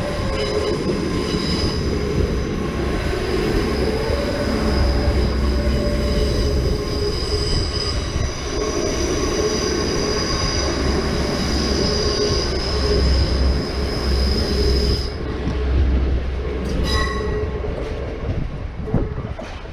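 A train running through the station with its wheels squealing in a high, steady tone over a heavy low rumble; the squeal stops about fifteen seconds in, and a few short clicks follow as the sound eases off near the end.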